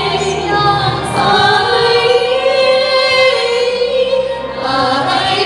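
Three women singing together, holding long notes that move in pitch a few times, with a brief dip in loudness and a fresh note shortly before the end.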